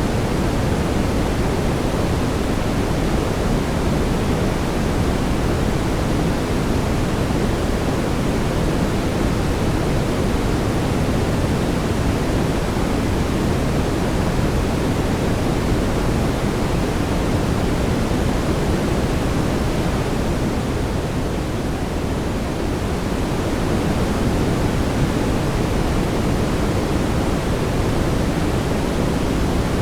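Steady synthetic brown noise: an even, deep rushing hiss weighted toward the low end, with no tones or events. It dips slightly in level about three-quarters of the way through.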